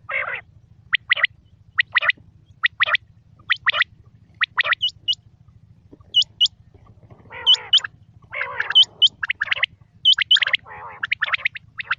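Quail calling: short doubled chirps repeated about once a second, joined in the second half by rougher, gurgling calls and high, upward-flicking notes, over a faint low hum.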